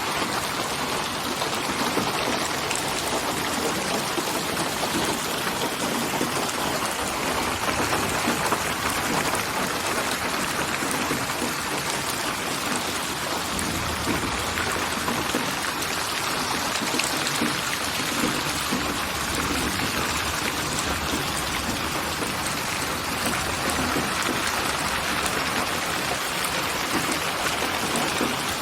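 Steady rain falling and pattering on a surface, a dense even hiss of drops with no let-up.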